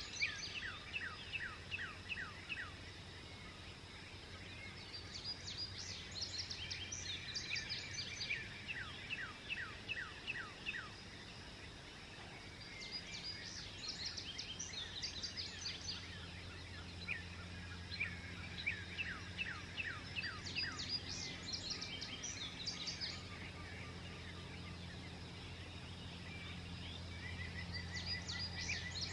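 Songbirds singing at dawn, in bouts of quick downward-sweeping notes and rapid high trills every few seconds. A steady low hum runs underneath.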